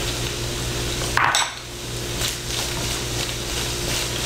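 Cabbage and shiitake mushrooms sizzling in a hot stainless steel pan, with a brief louder burst about a second in as the mushrooms go in. After that a wooden spatula stirs and scrapes the vegetables, over a steady low hum.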